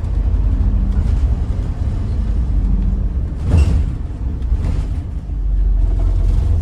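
Scania N94UD Omnidekka double-decker bus under way, heard from inside: a heavy, steady engine and road rumble, with a short clatter about halfway through.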